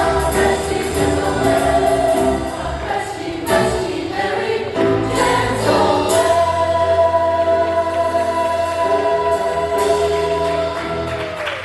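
Church choir singing, with the song ending on a long held chord from about six seconds in that releases just before the end.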